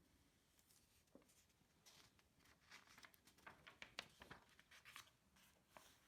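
Faint rustling with a quick series of light clicks and taps, like close-up handling of paper or small objects, busiest in the second half.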